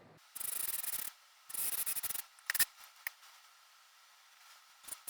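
Power drill running in short bursts into the recliner's wooden frame: two runs of under a second, two brief blips, then another run starting near the end.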